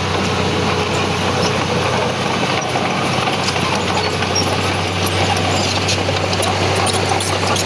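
Heavy diesel earthmoving machinery running steadily, with scattered light clanks over the engine hum.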